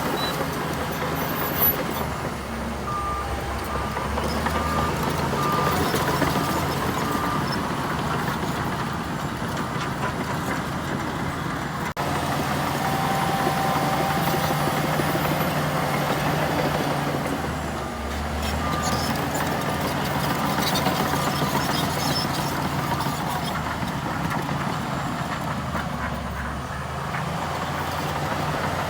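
Heavy diesel engine of a Shantui bulldozer working, its drone rising and falling with the load. A reversing alarm beeps in two spells, a few seconds in and again past the middle.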